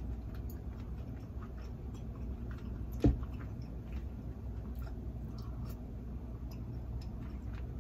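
Close-up eating sounds of a person chewing soft, cheesy grits: wet squishing and small clicks over a low steady hum, with one sharp thump about three seconds in.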